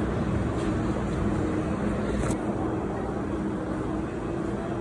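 City street traffic: a steady engine hum over continuous road noise.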